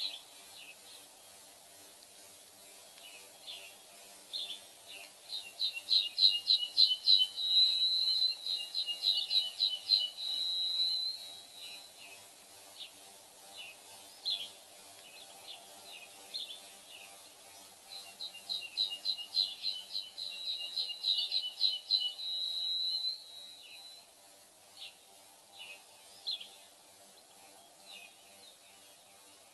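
A small songbird singing two long phrases of rapid repeated high notes, each ending in a held high whistle, with scattered single chirps between the phrases.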